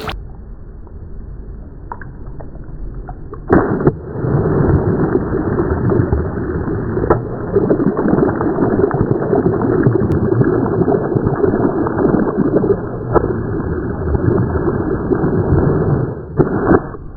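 A water-filled toy bursts suddenly about three and a half seconds in, followed by a long, dull rush of water and splashing that stops near the end.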